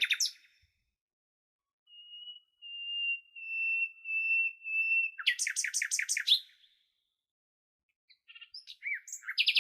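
A bird of prey's call: a long, thin, high whistle, then a quick run of about nine falling notes. A few short chirps follow near the end.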